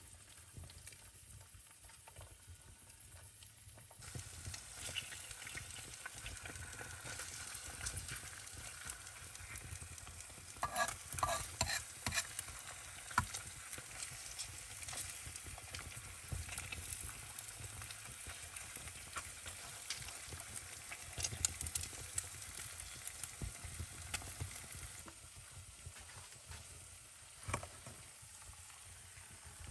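Food frying and sizzling in a pan, with a few sharp clicks a third of the way through.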